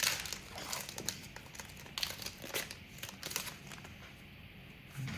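Plastic wrapper of a trading card pack crinkling as it is handled and ripped open, in irregular crackles that thin out near the end.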